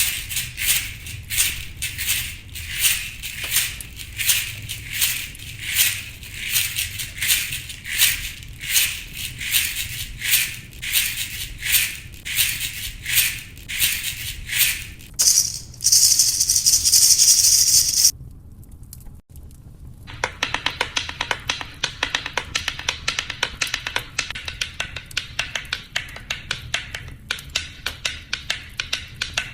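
A rattle shaker played in a steady rhythm of about two shakes a second, then shaken fast in one continuous rush for about three seconds. After a brief pause, a fainter, quick patter of rattling grains follows.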